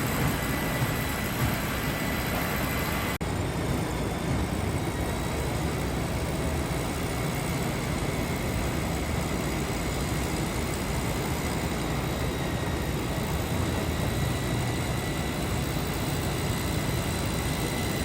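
Jet aircraft engines running steadily at an airport: an even rumble and hiss with a faint high whine. There is a brief dropout about three seconds in.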